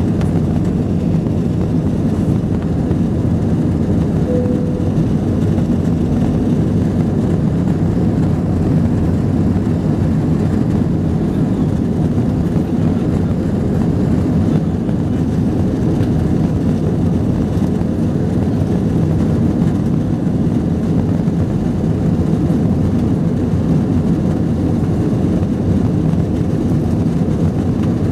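Cabin noise inside an Airbus A321 airliner in flight: the steady, mostly low-pitched rumble of the jet engines and airflow, unchanging throughout.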